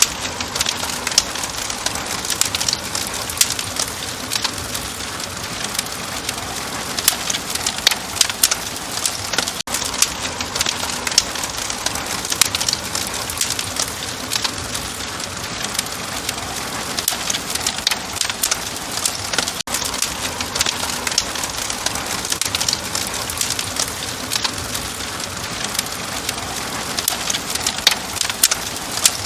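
Log fire crackling in a fireplace: dense, irregular pops and snaps over a steady hiss.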